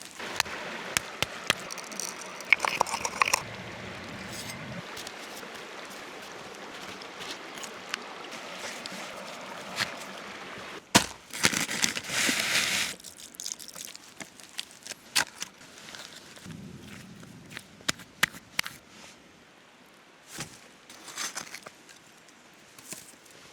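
Wood campfire crackling and hissing, with sharp pops scattered throughout and a louder two-second burst of noise about eleven seconds in.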